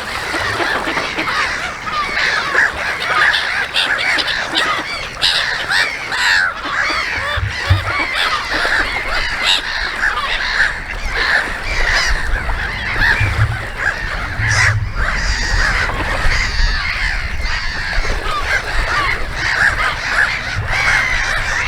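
A flock of many birds calling at once: a dense, continuous chorus of short harsh calls overlapping one another.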